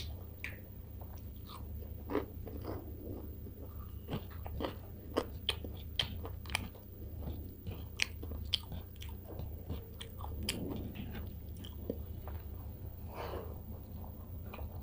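Close-up eating sounds: a person biting into and chewing crunchy fried food with her mouth, with many short wet clicks and smacks, then eating rice mixed with curry by hand.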